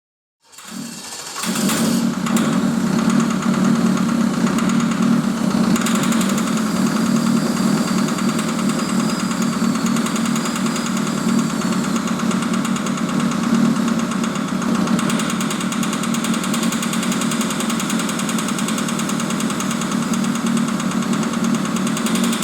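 SsangYong Korando C 2.0 XDi four-cylinder turbodiesel engine running steadily at idle.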